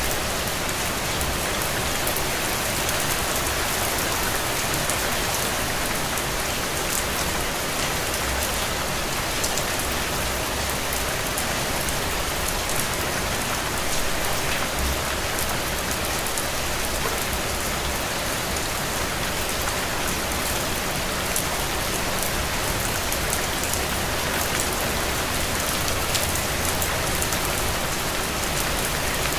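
Steady rain falling on a window pane, an even hiss with fine drop patter that keeps up at one level throughout.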